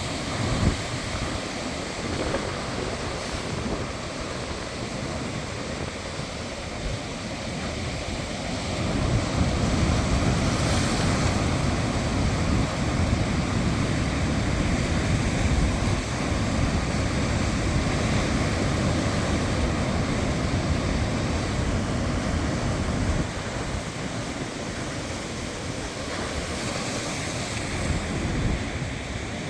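Rough sea waves surging and breaking, with wind buffeting the microphone. The low rush swells louder about a third of the way in and eases off again near three-quarters through.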